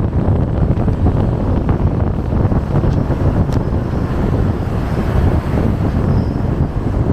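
Steady rush of a waterfall: falling water making a continuous noise.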